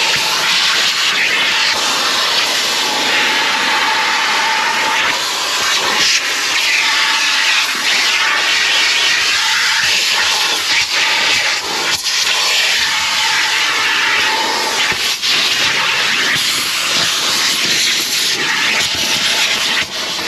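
Car-wash vacuum running with a loud, steady rush of air through the hose and a steady motor whine, with a few brief dips as the nozzle is moved around the car.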